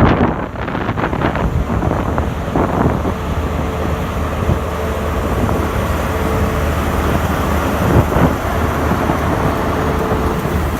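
Train running with a steady low engine hum and a faint steady whine, over a rushing noise; wind buffets the microphone at the start.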